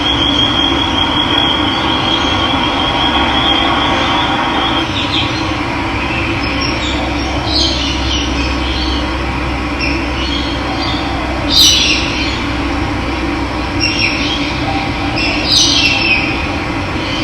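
Steady rushing of running water with birds calling over it: a thin high trill for the first few seconds, then scattered short chirps, two of them louder near the middle and the end.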